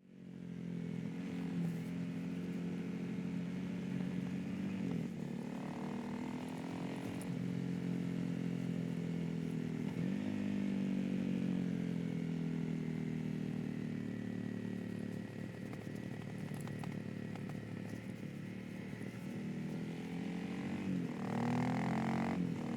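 Honda CRF250L's single-cylinder four-stroke engine running on the move, its pitch dropping and climbing again a few times as the throttle and gears change.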